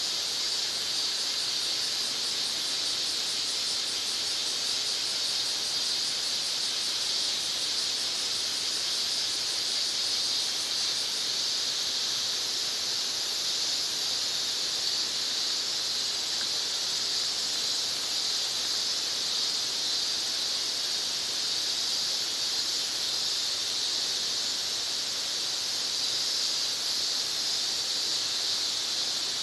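A steady chorus of insects shrilling at a high pitch. A faster pulsing trill sits on top of it for about the first third, then it settles into an even drone.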